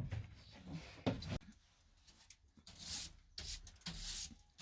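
Irregular scraping and rubbing, with a few short knocks, of wooden interior panels and boards being handled and worked loose during a van teardown.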